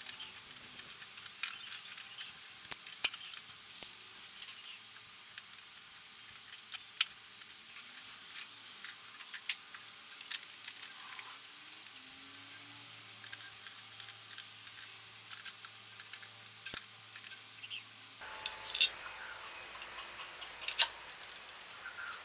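Scattered light metallic clinks and jingling, many sharp irregular ticks, with a faint low hum for several seconds around the middle.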